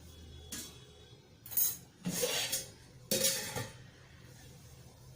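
Metal cooking pots and utensils clanking and clattering in about four short bursts as a cooking pot is lifted off the stove and another set down.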